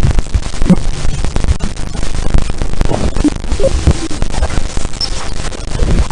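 Loud crackling static over a low rumble, with a few brief tones popping out, presented as the sound of Jupiter's moon Callisto.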